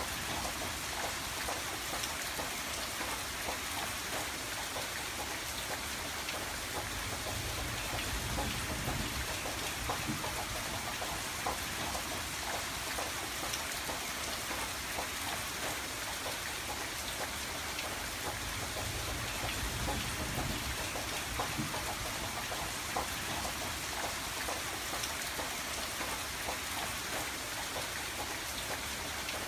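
Steady rain falling on a window pane: an even hiss with many small drop ticks, over a low rumble that swells a little now and then.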